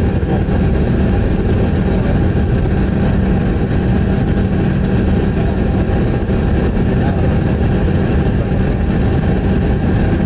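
Steady cabin noise inside a Bombardier CRJ200 regional jet: an even roar of engines and airflow with a steady low hum running under it.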